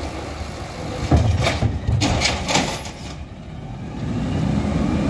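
Garbage truck engine running, with a few clanks in the first half and the engine revving up, rising in pitch, near the end.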